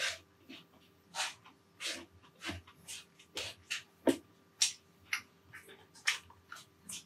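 Close-up eating sounds: chewing with wet mouth and lip smacks, about two a second.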